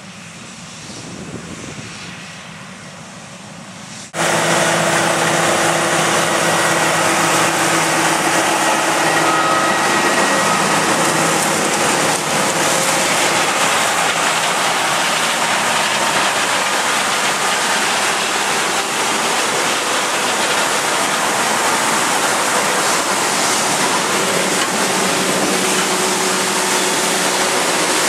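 Harvest machinery running loudly: a steady machine rush with an even engine hum. It cuts in suddenly about four seconds in, after a few seconds of quieter wind-like noise.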